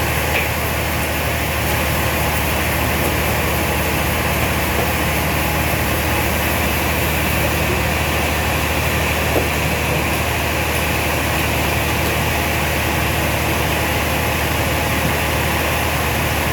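Sawmill machinery running steadily: a constant low engine-like hum with an even hiss over it.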